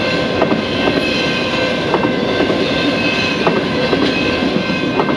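Fast freight train's autorack cars rolling past: a steady rumble of steel wheels on rail with irregular sharp clacks from the wheels, and steady high-pitched ringing tones over it.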